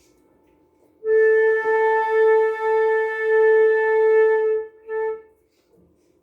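Flute holding one long steady note, tongued again a few times without changing pitch, then a short note on the same pitch.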